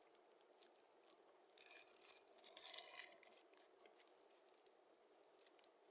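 Foil wrapper of a shawarma crinkling and tearing in a short burst of rustles a little past the middle, with a few faint clicks around it.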